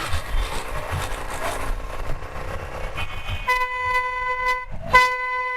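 A vehicle horn sounds twice in traffic, a steady single-pitched blast of about a second followed by a shorter one, over the low rumble of riding.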